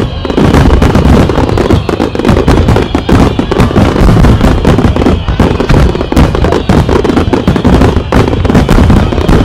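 Large starmine fireworks barrage: many aerial shells bursting in quick, overlapping succession, a loud continuous run of booms with no pause.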